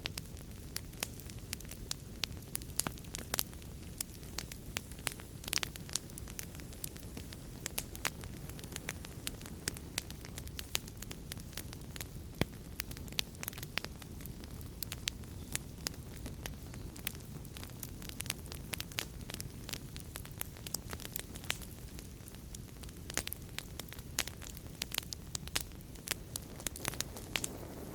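Fireplace wood fire burning with a steady low rumble and frequent irregular sharp crackles and pops.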